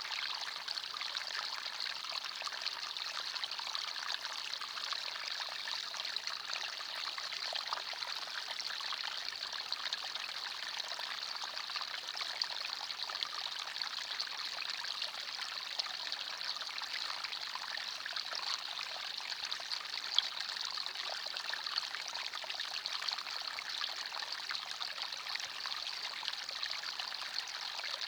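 Forest stream flowing and trickling steadily: a light, even rush of water with little low rumble and a few small splashes.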